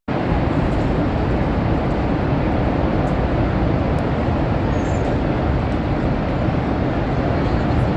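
Steady roar of rushing, falling water.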